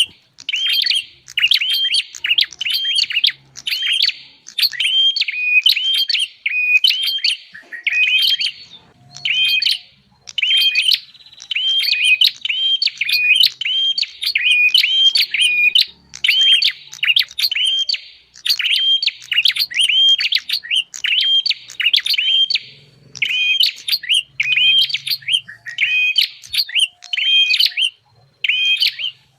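Prenjak (prinia) song used as a bird-trapping lure call: loud, rapid runs of high, sharp chirping phrases repeated over and over, with short pauses every second or few.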